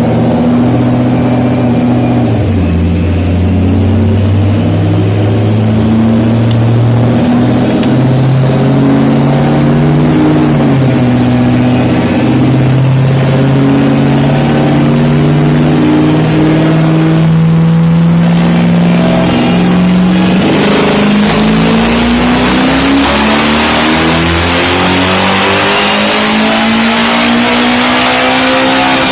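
Twin-turbo Ford Mustang engine under load on a chassis dyno, revs climbing slowly, with the six-speed automatic shifting up about two seconds in and again around ten seconds in. A thin high whistle rises along with the revs, and near the end the pitch climbs steadily.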